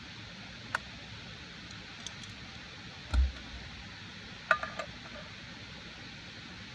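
Light clinks and knocks of camp cookware over a steady hiss of rain. There is a dull low thump about three seconds in, then a quick cluster of ringing clinks about a second later.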